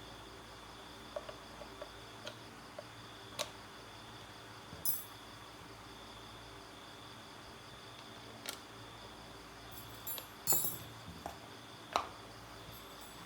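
Scattered sharp clicks and light taps, about a dozen with the loudest near the end, over a steady faint high chirring of crickets.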